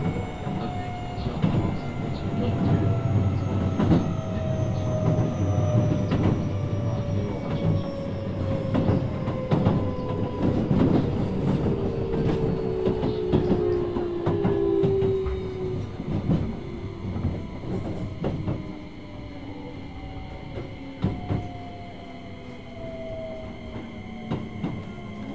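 Keio 8000 series electric train heard from inside the car: the Hitachi IGBT inverter and traction-motor whine glides steadily down in pitch as the train slows, over wheel rumble and rail-joint clicks. The running noise eases off about three quarters of the way through.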